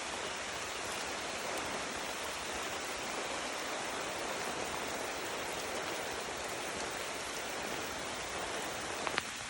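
Heavy tropical rain falling steadily, a dense, even hiss of rain on surfaces. Two sharp ticks stand out near the end.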